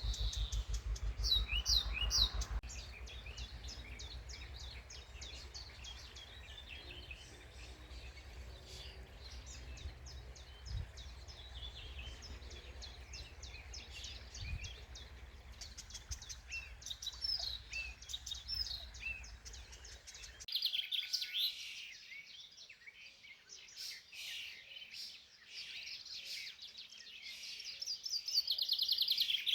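Several songbirds singing and calling, with many short chirps and whistled notes. A low rumble underneath cuts off abruptly about two-thirds of the way through, and a fast trill comes in near the end.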